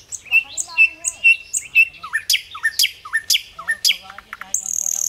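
Birds calling: a run of four clear chirps about half a second apart, then several quick calls sweeping sharply up in pitch, and a short harsh hiss near the end.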